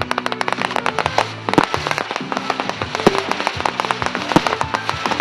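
Fireworks going off in a rapid, dense string of bangs and crackles, with a few louder reports standing out, over music with held notes.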